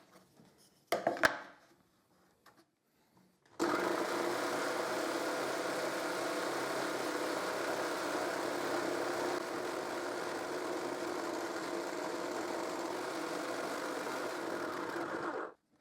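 A couple of short knocks about a second in, then a table-mounted jigsaw starts abruptly and runs steadily for about twelve seconds, making a crosscut through a wooden workpiece, before it stops shortly before the end.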